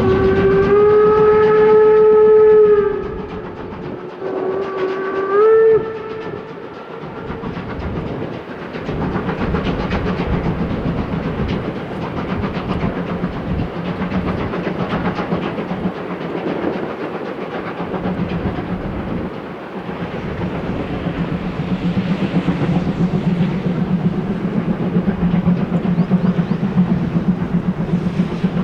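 Sound decoder of a Roco H0 model BR 01 steam locomotive playing a long steam-whistle blast through its small onboard speaker. A shorter whistle follows about four seconds in, then steady steam-locomotive running sound with a low hum.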